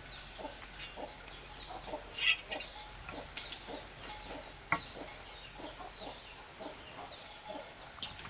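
Chickens clucking in short, spaced calls, with quick falling chirps of small birds over them.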